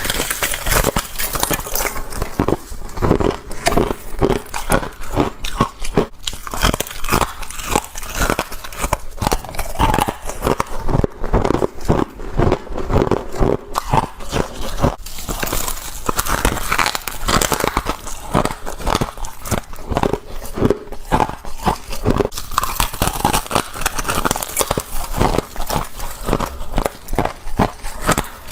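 A person biting and chewing frosty ice close to the microphone, with dense, irregular crunching throughout.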